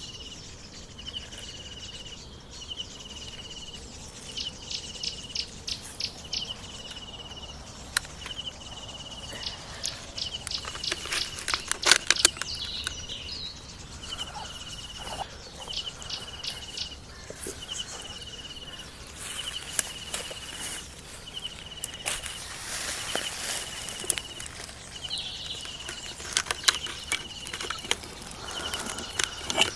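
Outdoor ambience: a short high chirp repeating about once a second throughout, with scattered clicks and rustles, the loudest about twelve seconds in.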